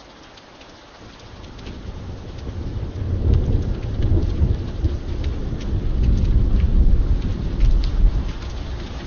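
Steady rain with scattered drops ticking, and a deep roll of thunder that builds from about a second in and rumbles loudly through the rest.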